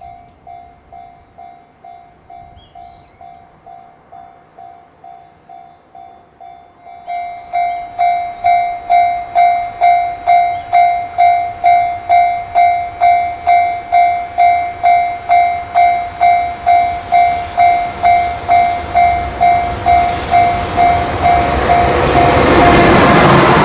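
Level-crossing warning bell dinging steadily, about two dings a second, faint at first and suddenly much louder about seven seconds in. Near the end an approaching freight train's rumble swells over it.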